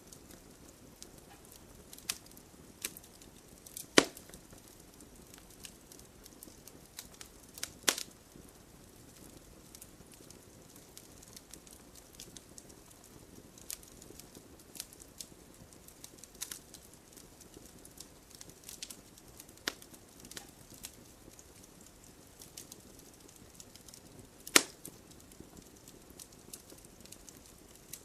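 Wood campfire crackling, with frequent small crackles. Three loud, sharp pops come about four seconds in, about eight seconds in, and near the end.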